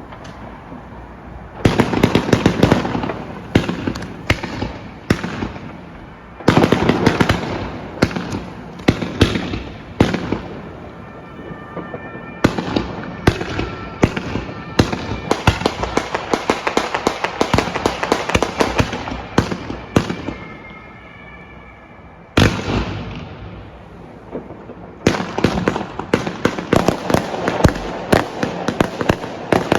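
Consumer New Year's Eve fireworks going off in rapid volleys of sharp bangs and crackling. There are dense clusters about two and six seconds in, a quieter lull a little past twenty seconds, then dense bangs again near the end.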